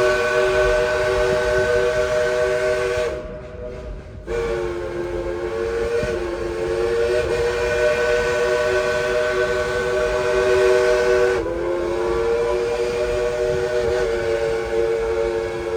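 Dollywood steam locomotive's chime whistle blowing long blasts, several tones sounding together: one blast ends about three seconds in, and after a short break a second long blast is held, dipping slightly in pitch near the end.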